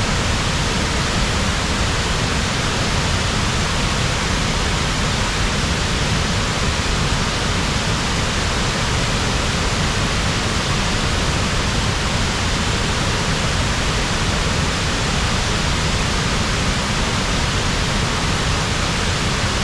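Upper Tahquamenon Falls, a waterfall, making a steady, unbroken rush of falling water.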